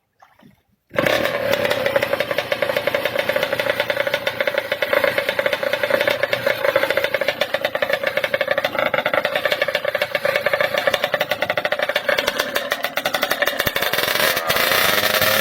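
Kawasaki KR two-stroke engine on a Thai racing boat running hard with a fast, rapid firing, cutting in abruptly about a second in and climbing in pitch near the end as it revs up.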